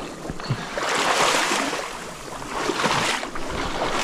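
Stream water sloshing and splashing in surges about every second and a half, as legs wade through it.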